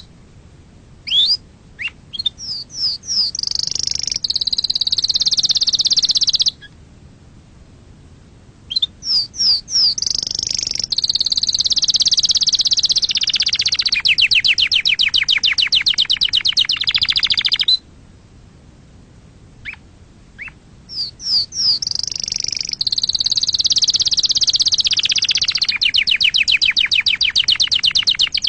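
Domestic canary singing: each bout opens with a run of quick rising chirps, then long high trills and a fast rattling roll. Three bouts, with short pauses between them.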